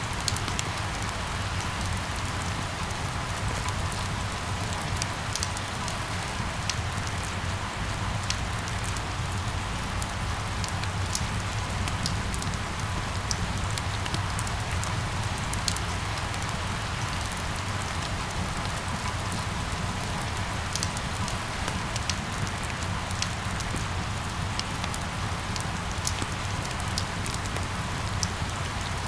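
Steady rain falling, with a constant hiss and many small drop ticks spread through it, over a low, even rumble.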